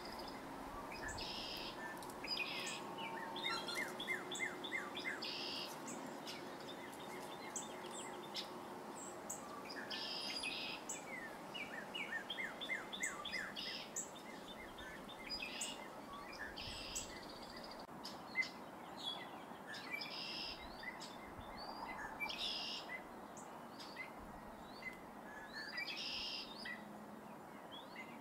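Backyard songbirds calling and chirping at intervals, including short repeated calls and runs of quick falling notes, over a steady low background hum.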